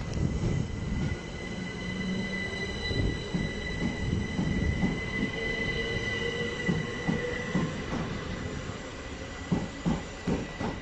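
Class 377 electric multiple unit pulling out of the station: a rumble with a steady high-pitched wheel squeal and a motor whine that rises slowly in pitch as it gathers speed. A few sharp clacks of wheels over rail joints come near the end.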